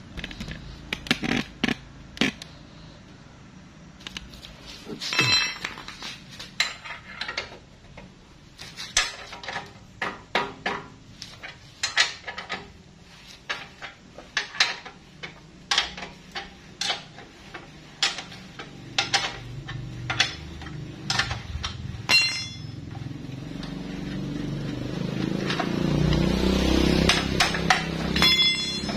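Metal tools and parts clinking and knocking, irregularly, about one or two sharp strikes a second, as a motorcycle's rear wheel hub is taken apart to reach its wheel bearings. A low hum builds over the last few seconds.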